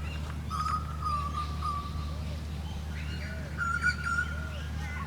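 Birds calling: a thin, drawn-out whistled note that wavers slightly, heard twice (the second a little higher), with faint short chirps around it over a steady low background hum.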